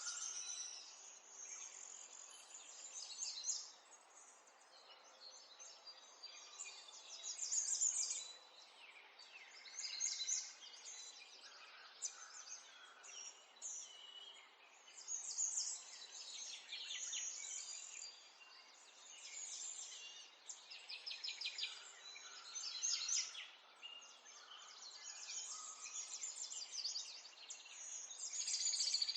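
Small songbirds chirping and singing in quick high trills, coming in overlapping bursts every couple of seconds over a faint steady background hiss.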